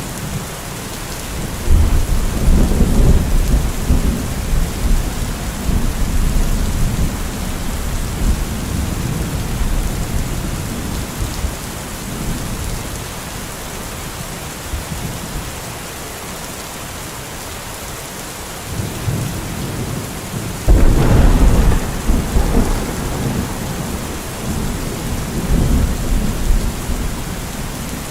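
Steady rain with two rolls of thunder. The first rumbles in about two seconds in and dies away over several seconds; the second breaks more sharply about three-quarters of the way through and rumbles on.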